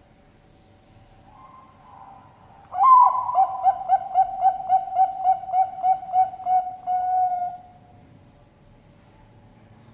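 Bangkok-strain zebra dove (perkutut) singing its full cooing song. It starts with a few soft notes, then gives a loud opening coo and a fast run of about a dozen pulsing coos at roughly four a second, ending on a longer held note.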